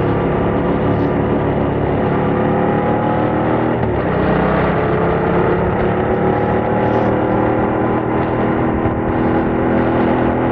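Yamaha MT-07's 689 cc parallel-twin engine pulling through its stock exhaust while riding. The engine note rises steadily, drops at a gear change about four seconds in, then climbs again.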